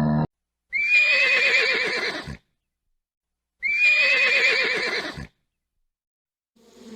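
An animal call played twice, the same recording each time: a high, wavering cry of about a second and a half that slides downward, with a gap of silence between the two.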